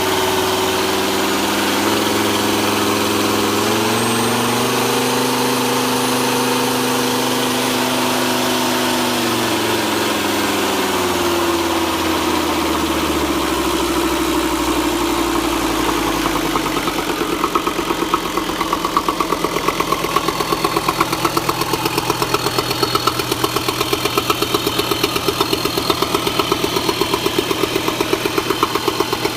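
Nanni 5.250TDI 85 hp marine turbo-diesel on a test run after overhaul: it is revved up a few seconds in, held, then slowly settles back down. It then idles with an even, pulsing beat.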